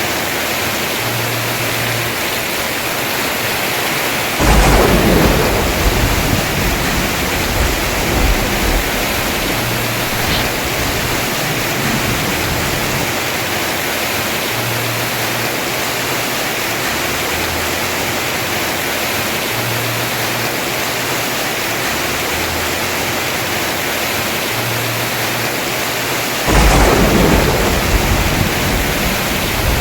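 Heavy rain falling steadily on a house roof, with two sudden claps of thunder, about four seconds in and near the end, each rumbling on for a few seconds.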